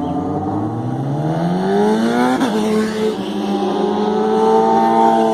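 Superbike engine accelerating, its pitch rising steadily for about two seconds, then dropping sharply about halfway through as it shifts up, and holding a steady, slightly climbing note after that.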